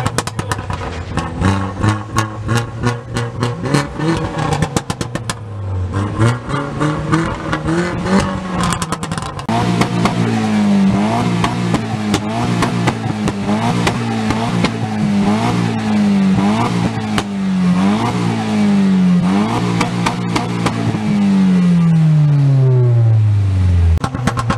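A car engine being revved at a meet. It runs rough with many sharp crackling pops for the first several seconds, then is blipped up and down about once a second, held high for a couple of seconds, and drops away near the end.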